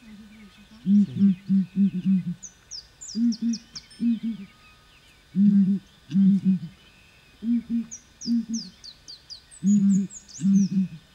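A bird giving low, repeated hooting calls, short notes in pairs and runs of three to five with short pauses between groups. Twice a second bird adds a quick series of high chirps, about two seconds in and again near the end.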